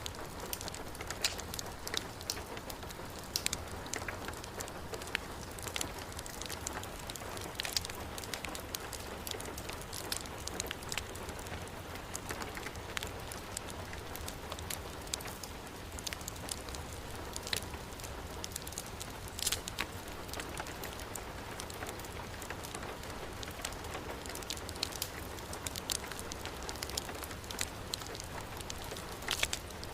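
Heavy rain falling steadily, mixed with a crackling wood fire in a fireplace: many sharp pops and snaps come at irregular moments over the even hiss of the rain.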